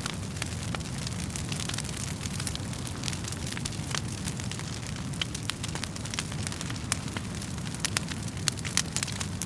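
Wood fire crackling: frequent sharp pops and snaps at an irregular pace over a steady low rumble of the flames.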